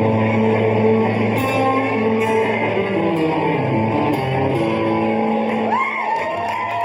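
Live country band playing loudly: electric guitar over held bass notes. A wavering, sliding high tone comes in near the end.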